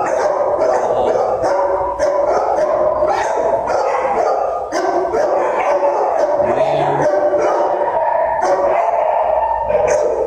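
Many dogs barking and howling at once, a continuous din of overlapping barks and drawn-out howls typical of a shelter kennel block.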